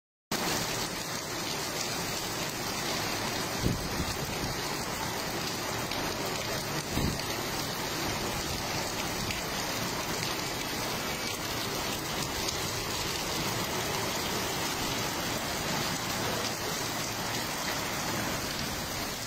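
Heavy rain pouring steadily onto wet paving and puddles, with two short sharp knocks about four and seven seconds in.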